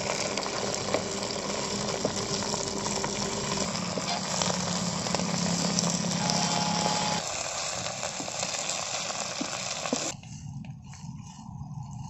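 Curry leaves frying in hot sesame oil in a pot, a steady sizzle, stirred with a wooden spatula. The sizzle drops off sharply near the end.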